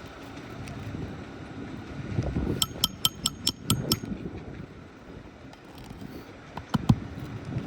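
Hammer tapping a roofing nail into a shingle: about six quick, ringing metallic strikes a few seconds in, then a couple of duller knocks near the end, with wind noise on the microphone throughout.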